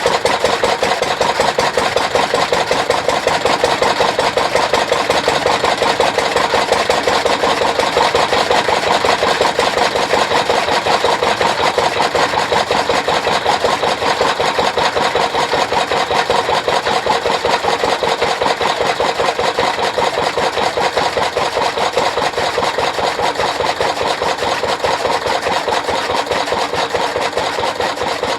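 Small engine running steadily with a fast, even beat, as on an engine-driven chaff cutter.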